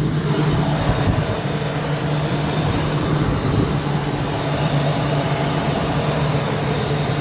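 2002 Fleetwood Storm motorhome's engine running steadily at a fast idle of about 1,100 RPM, freshly restarted after eight years of sitting.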